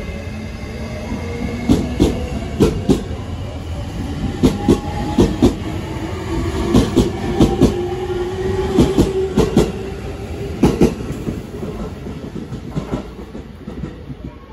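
JR East E653 series electric train pulling out and gathering speed: its wheels click over the rail joints in quick pairs, and a motor whine slowly rises in pitch. The sound fades near the end as the last car moves away.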